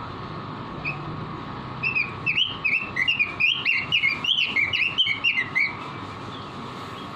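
Pekin robin (red-billed leiothrix) singing: a single note, then a rapid run of whistled, up-and-down notes lasting about four seconds, over a steady background hum.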